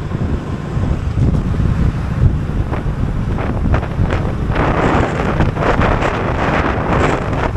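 Wind buffeting the microphone of a passenger riding a moving motorcycle: a steady heavy rumble, with stronger gusty rushes from about halfway in.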